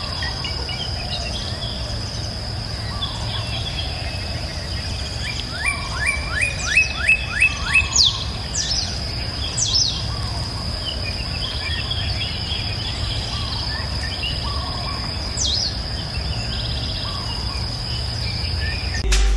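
Rural morning ambience: a steady high-pitched insect drone with birds calling over it. About six seconds in, a bird gives a quick run of about eight rising notes, the loudest part, followed by a few falling whistled calls, with a low steady rumble beneath.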